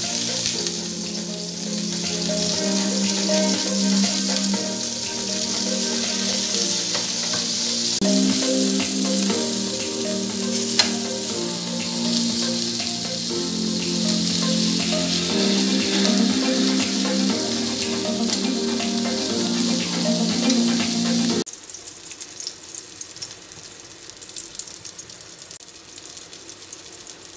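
Chicken gola kababs on skewers sizzling as they shallow-fry in oil in a nonstick frying pan, under background music with held notes. About three-quarters of the way through, the loud sizzling and the music stop, leaving a fainter crackling hiss.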